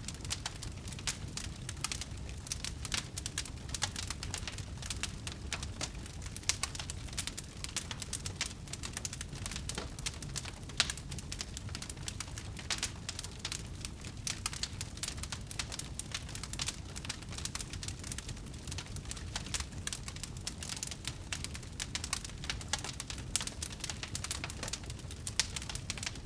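Wood fire burning in a fireplace, crackling continuously with dense small pops and snaps over a low rumble of the flames, and one sharper pop about eleven seconds in.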